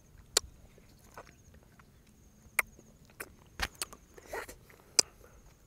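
Quiet mouth sounds of someone eating mangosteen: scattered sharp clicks and lip smacks while chewing the fruit's flesh, with a short soft rustle about four seconds in.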